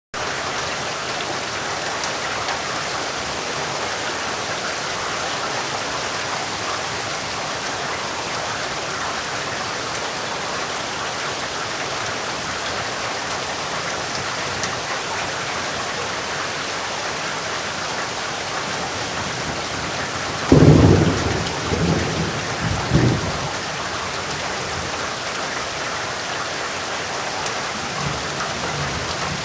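Steady heavy rain falling, with a sudden loud clap of thunder about two-thirds of the way through that rumbles on for a couple of seconds.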